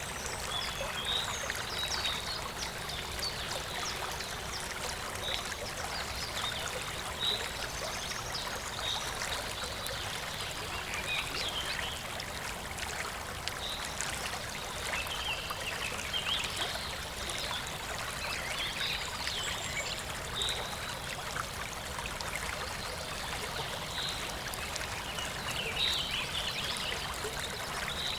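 Clear shallow river flowing and trickling steadily, with small birds chirping now and then in short high calls.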